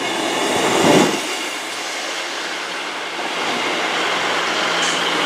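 Class 158 diesel multiple unit running into the platform with wheel and rail noise, loudest about a second in. A steady low diesel hum follows, with a short high brake squeal near the end as it slows.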